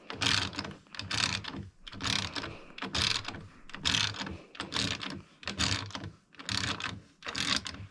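Hand ratchet wrench clicking in repeated strokes, about one a second, as an engine mounting bolt is run in snug on a motorcycle frame.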